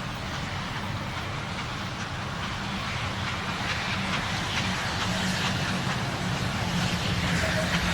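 A train approaching, its steady rumble growing slowly louder.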